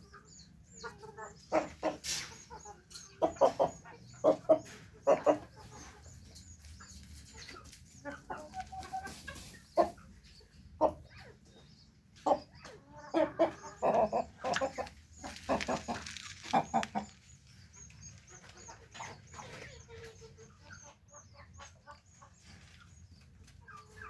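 Kandari chickens clucking, with short calls that come in loud clusters a couple of seconds in and again around the middle, and softer scattered clucks in between.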